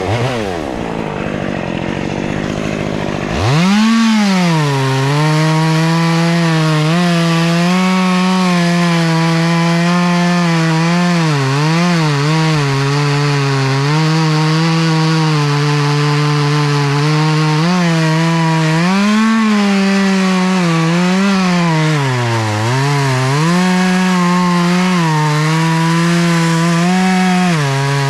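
Two-stroke chainsaw revving up about three seconds in, then running at full throttle while cutting a tree branch. Its pitch dips again and again as the chain bogs in the wood.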